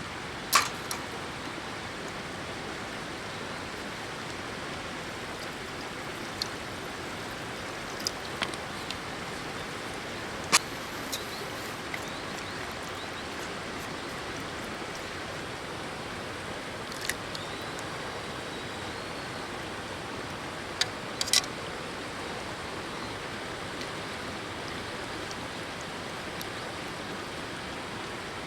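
River water flowing steadily, with a scattering of short, sharp clicks and knocks over it.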